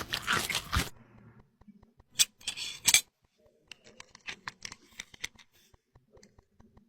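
Tiny toy kitchen pieces being handled: a second of dense scraping and rustling, then scattered light clicks, taps and short scratchy scrapes.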